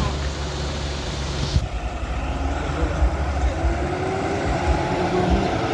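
A motor vehicle's engine running under load with a steady low rumble. Its whine rises in pitch from about halfway through.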